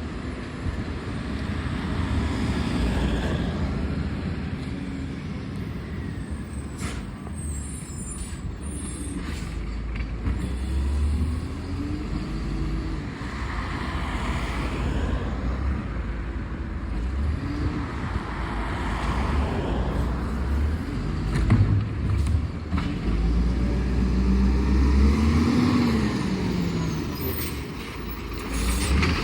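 Garbage truck's diesel engine running, with its revs rising and falling several times.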